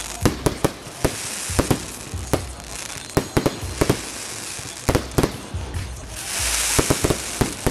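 Fireworks bursting: a string of sharp bangs at irregular intervals over a continuous crackling hiss, the crackle swelling louder about six seconds in.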